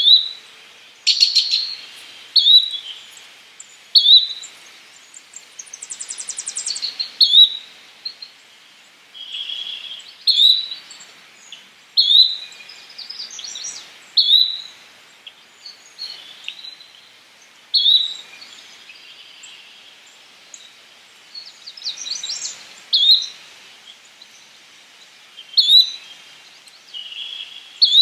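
Yellow-bellied flycatcher calling: short, sharp notes repeated every second or two, with a few buzzier, rattling notes among them.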